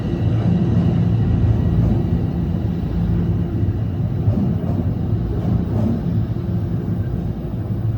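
Toronto Rocket subway train on TTC Line 1 running through the station: a loud, steady rumble with low humming tones from the train.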